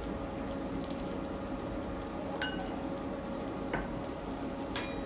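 Rava dosa sizzling steadily in oil on a hot pan, with a few light clicks of a steel spoon against the pan as oil is spread over the batter.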